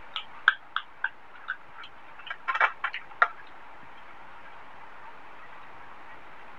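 Close-miked chewing: wet mouth clicks and smacks, a few a second, with a quick cluster about two and a half seconds in. They stop a little after three seconds, leaving steady hiss.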